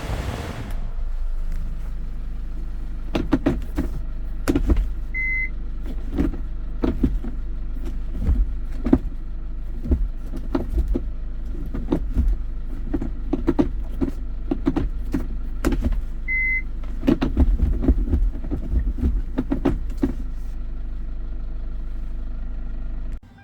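Hyundai Porter II truck's engine idling steadily, with many clicks and knocks on top and two short high beeps, one about 5 seconds in and one about 16 seconds in. The sound cuts off suddenly near the end.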